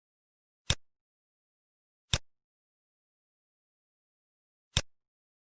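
Three short, sharp computer clicks, as options are selected in an on-screen quiz. The second comes about a second and a half after the first and the third about two and a half seconds later, with dead silence between.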